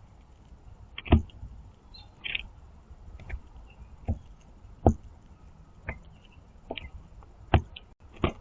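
Blue jays on a platform bird feeder: about seven sharp, irregularly spaced knocks as the birds hop and peck at seed on the feeder tray. A brief quiet, squeaky jay call comes about two seconds in.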